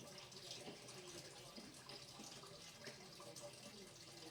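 Faint, steady running water from a tap.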